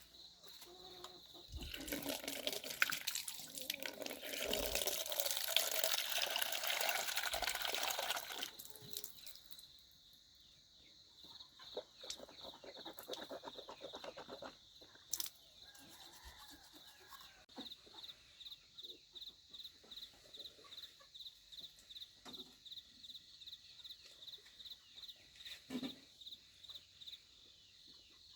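Water running and splashing at a wash basin for about seven seconds, then a few scattered splashes, followed by quieter rhythmic scrubbing at about two or three strokes a second.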